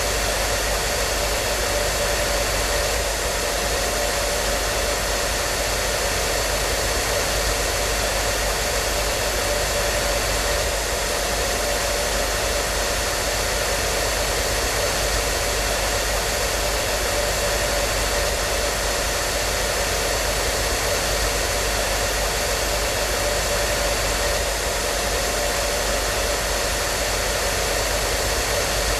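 Hair dryer running steadily: an unbroken rushing of air with a faint steady whine of its motor.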